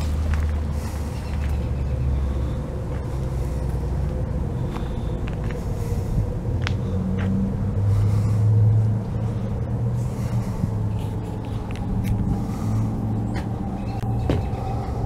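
A large engine running steadily with a low rumble, briefly rising in pitch and level about eight seconds in.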